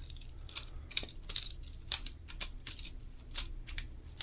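Boker Plus balisong butterfly knife being flipped: a run of sharp metallic clicks and clacks, a few a second at an uneven pace, as the handles swing around the blade.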